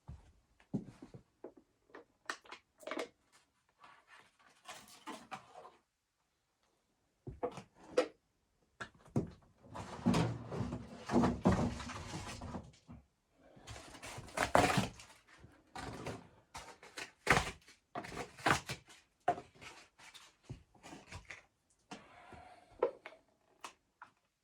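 Irregular knocks, clunks and rustling or scraping as objects are handled, with a short break in the sound about six seconds in.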